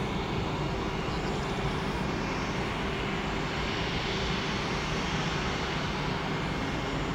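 Jet airliner engines heard at a distance, a steady even noise with a faint steady hum.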